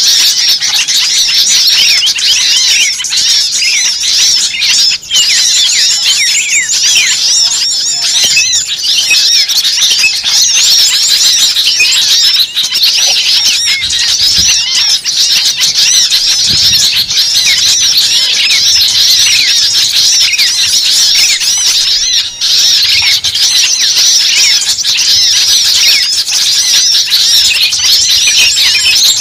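A dense, continuous chorus of many small birds chirping at once: countless short, high chirps overlapping with no pause.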